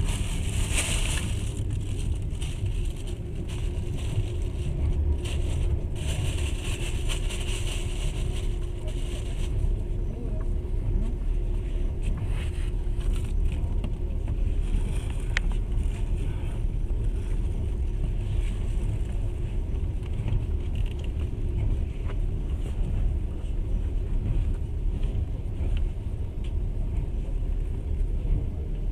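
Passenger train running steadily, heard from inside the carriage: a continuous low rumble of wheels and carriage with a faint steady hum, and one sharp click about fifteen seconds in.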